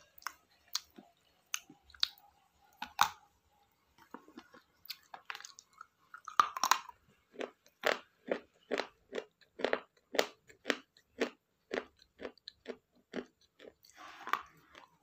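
Someone chewing crunchy food close to the microphone: scattered bites at first, then a steady run of crisp chews about two a second.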